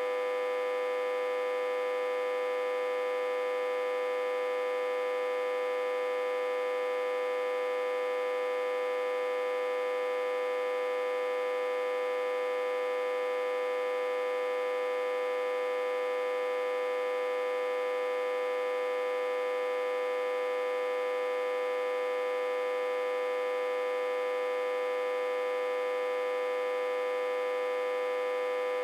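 Autotransformer humming with a constant, unchanging buzz: one strong mid-pitched tone with many overtones above it. It is fed backwards from a step-down transformer at about 60–80 V input.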